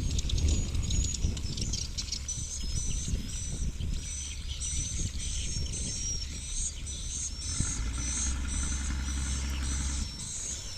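A wild animal calling: a run of short high-pitched chirps, about two a second, over a steady low rumble that swells into a stronger hum for a couple of seconds near the end.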